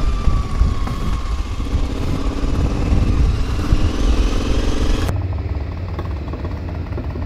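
KTM 950 Adventure's V-twin engine running at low, gently varying revs while the bike rolls along, heard from on board. About five seconds in the sound cuts to a duller, more distant engine note.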